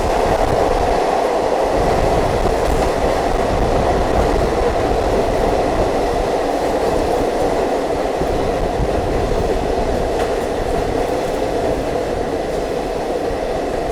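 Steady running noise of a diesel multiple unit train heard from on board: a continuous rumble of wheels on rail, with a faint clickety-clack of rail joints.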